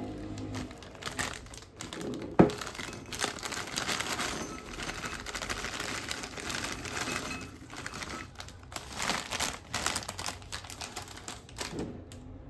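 Plastic snack bag crinkling and rustling as it is handled, with one sharp snap about two and a half seconds in.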